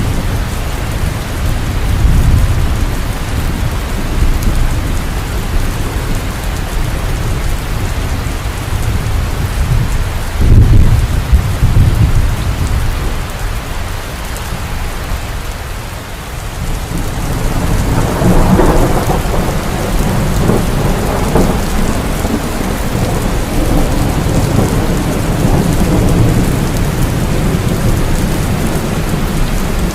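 Heavy rain falling steadily, with rolling thunder rumbling low beneath it. The loudest rumble comes about ten seconds in, the thunder eases briefly, then another long roll swells up a few seconds later.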